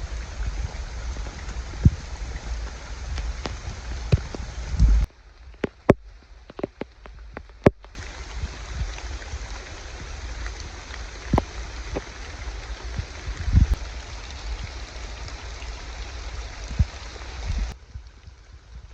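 Heavy rain falling, a steady hiss scattered with sharp drop strikes. About five seconds in it cuts abruptly to a quieter stretch of separate drips ticking for about three seconds, then the full rain returns and drops away abruptly again near the end.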